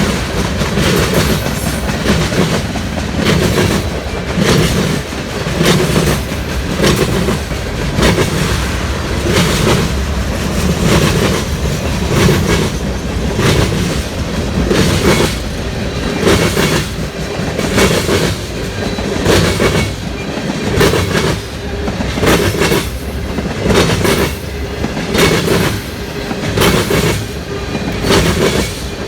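Freight train cars rolling past, wheels clacking over rail joints in a repeating pattern, with a steady rumble underneath.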